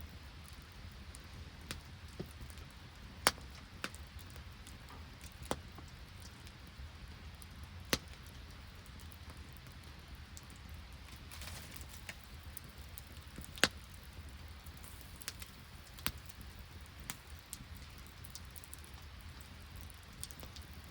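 Wood campfire crackling, with scattered sharp pops at irregular intervals, a few of them loud, over a steady background of light rain.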